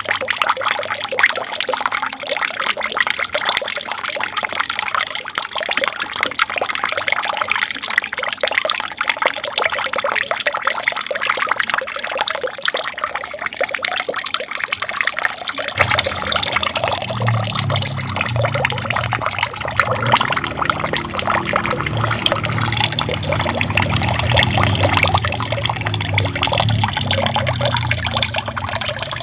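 Water trickling and splashing steadily in an aquarium waterfall. About halfway through, a low rumble joins the trickle and carries on underneath it.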